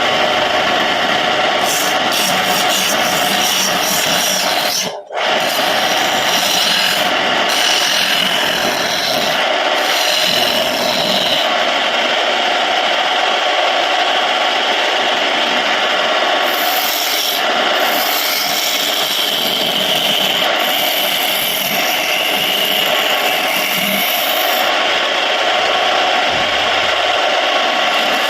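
Homemade wood lathe running while a tool works the spinning surian wood, giving a steady scraping over the machine's steady tones. The sound drops out briefly about five seconds in.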